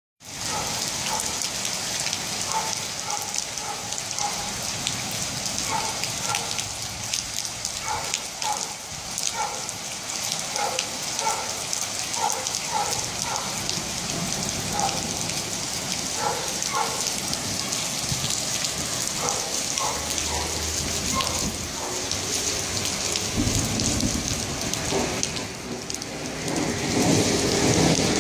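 Heavy rain from a thunderstorm pouring steadily, with short plinking sounds through the first half and a low rumble of thunder about twenty seconds in.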